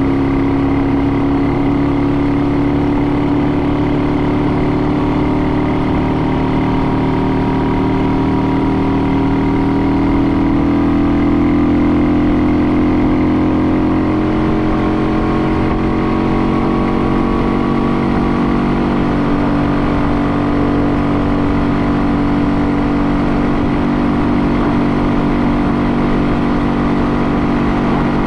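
An engine running steadily, its pitch creeping up over the first half and then holding.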